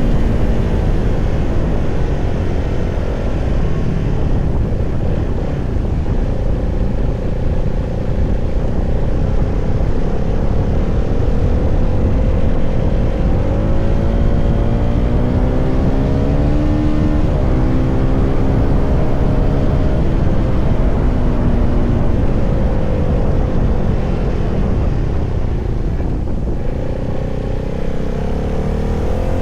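CFMoto 300SR motorcycle's single-cylinder engine running under way, its pitch rising with the revs about halfway through, falling back, then climbing again near the end, over a heavy low wind rumble on the microphone.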